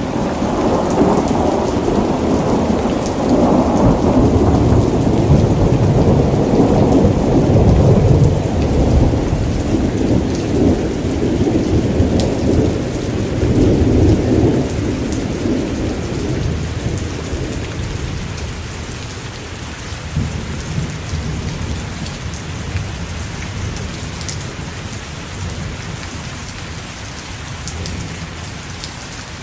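Steady rain with a long roll of thunder. The rumble swells over the first fifteen seconds or so, then dies away, leaving the rain on its own.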